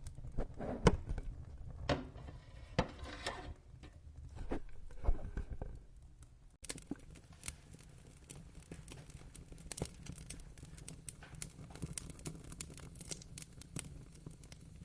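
Wood fire in a fireplace, crackling with irregular sharp pops over a low rumble of flame. The loudest pops come in the first few seconds. About six and a half seconds in, the sound cuts abruptly to a denser run of finer, quieter crackles.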